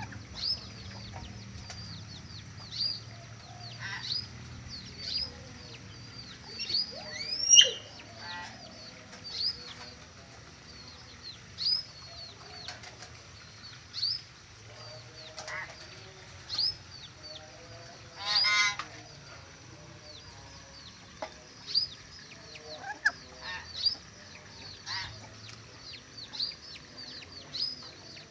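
Birds calling: a steady run of short, high, downward chirps about once a second, broken by a few louder harsh calls, the loudest about 7 s and 18 s in.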